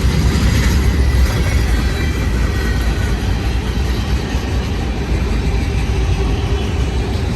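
Freight cars of a Union Pacific manifest train rolling past at a good pace: a loud, steady rumble of steel wheels on rail. Most of the cars are probably empty.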